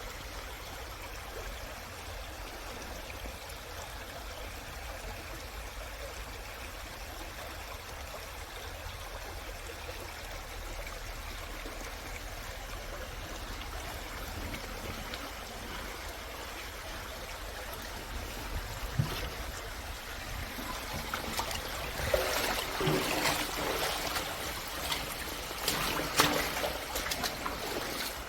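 Mountain stream water rushing and trickling over rocks, a steady hiss at first that turns louder and more splashy, with irregular spatters, in the last several seconds.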